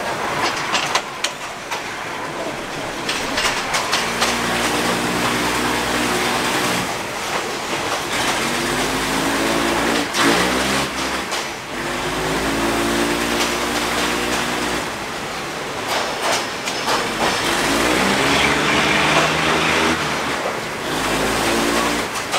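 Diesel railcar under way, heard from inside a non-air-conditioned carriage: a steady rolling rush with scattered wheel clacks, and the engine's hum coming and going in several stretches, its pitch rising and falling.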